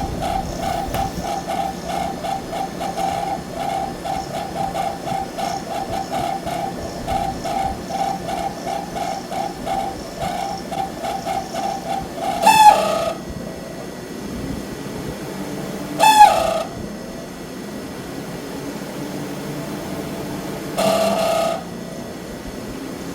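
Refrigerator condenser fan motor squealing: a rapidly pulsing high squeal for about the first half, then three louder separate squeals a few seconds apart, two of them sliding down in pitch. The sign of a failing condenser fan motor.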